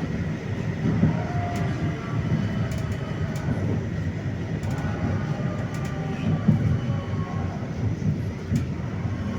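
71-931M Vityaz-M tram running, heard on board: a low rumble of wheels on rail, with the whine of its IGBT traction inverter and ATD-10U1 motors gliding down in pitch, and a few clicks.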